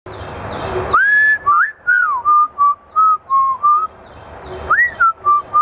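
African grey parrot whistling a tune in clear, pure notes: a rising note held briefly about a second in, then a run of short notes, with the tune starting over near the end.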